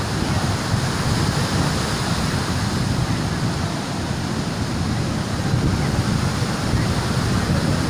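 Strong wind buffeting the microphone, with sea surf washing behind it: a steady rush of noise that flutters at the low end.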